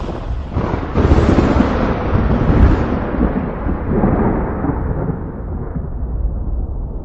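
Thunder: a loud clap about a second in, rolling on as a deep rumble that slowly fades away.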